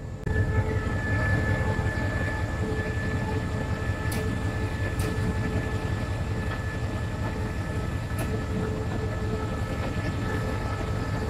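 Train running steadily: a low rumble with a steady hum over it, and a few faint clicks.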